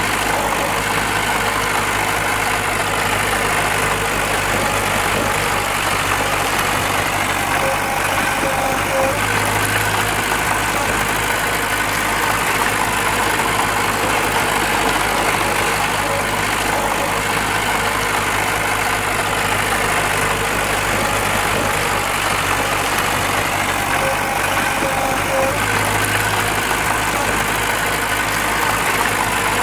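Diesel engine of heavy earthmoving machinery running steadily at an even speed, with no clear revving or impacts.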